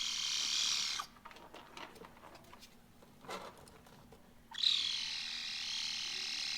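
A cat making a long, high-pitched, wavering call that sounds like a laser beam. The first call stops about a second in, and a second one starts about four and a half seconds in.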